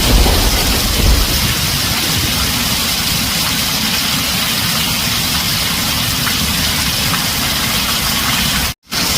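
Heavy rain drumming steadily on a tin roof, with the tail of a low thunder rumble fading out in the first second or so. The sound cuts out completely for a split second near the end, then the rain resumes.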